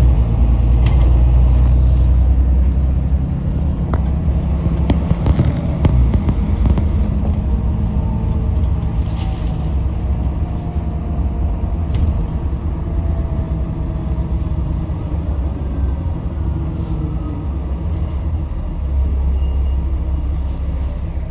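Diesel engine of a Yutong ZK6128HG city bus running as the bus drives, heard from inside the passenger cabin as a steady low rumble whose pitch slowly shifts. There are a few sharp clicks or knocks along the way.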